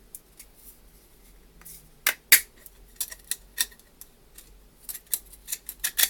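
Hard 3D-printed plastic parts clicking and clacking against each other and the table as they are handled, a run of sharp, uneven taps starting about two seconds in.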